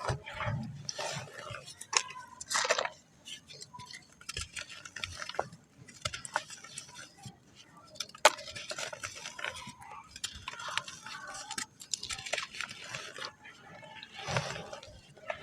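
Wet black sand clumps being crumbled by hand, in irregular gritty crunches and crumbles with one sharp click about eight seconds in.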